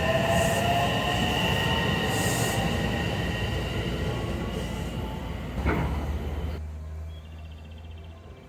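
Train running past with steady high-pitched wheel squeal over a loud rumble and a slowly rising whine. A single sharp knock comes about two-thirds of the way through, then the sound drops away and fades out.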